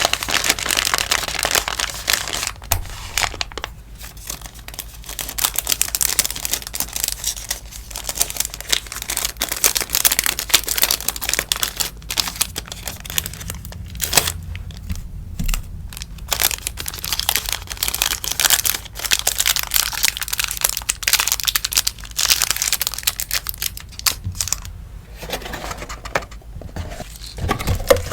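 Sticker packaging being handled: wrappers crinkling and rustling with small crackles and clicks, in stretches broken by short pauses.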